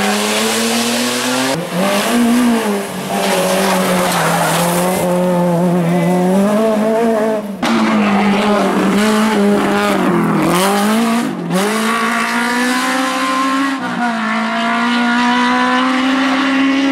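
Rally car engine running hard at high revs, its pitch rising under throttle and dropping abruptly several times at gear changes.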